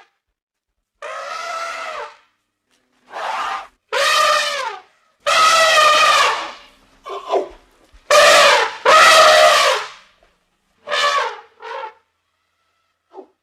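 Elephant trumpeting: a series of about nine loud, brassy calls, each under a second or so long, separated by short silences.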